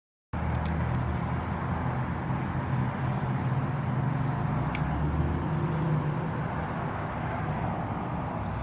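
A vehicle engine hums steadily under a constant rumble of road or traffic noise, starting abruptly after a moment of silence.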